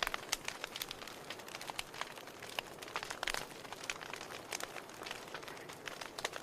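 Wood fire crackling in a fireplace: a steady run of irregular pops and snaps over a soft hiss, with a few louder pops about a second in and around three seconds in.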